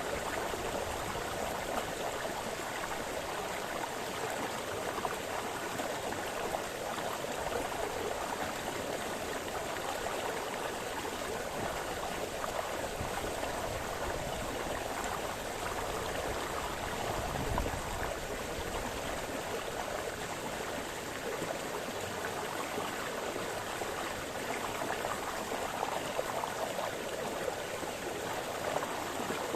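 A small brook splashing and burbling steadily over stones, with a brief deeper gurgle about seventeen seconds in.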